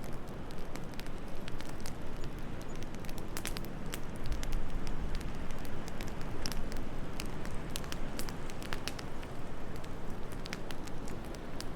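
Wood fire crackling, with irregular sharp pops and snaps over a steady low rush of wind.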